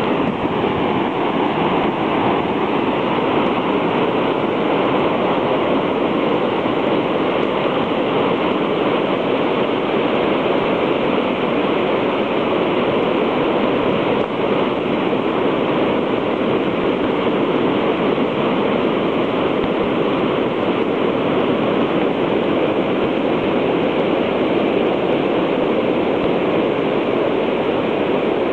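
Storm surf from a hurricane-driven tidal surge breaking on the beach: a continuous, even rush of water noise with no distinct breaks between waves.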